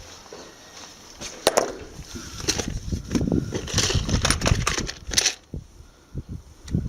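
Sharp clicks and knocks with rustling handling noise as a plastic side panel and hand tools are worked on a motorcycle; it goes quieter about five and a half seconds in.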